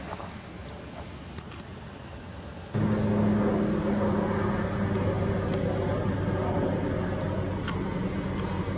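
Faint outdoor background, then, about three seconds in, a steady low engine hum that starts abruptly, like a car idling close by.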